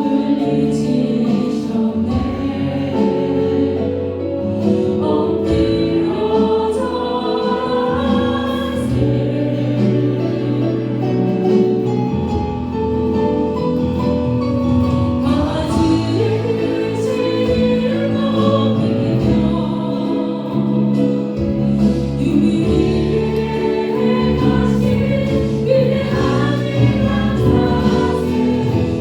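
Church congregation and worship team singing a Christian praise song together, with instrumental accompaniment under the held notes.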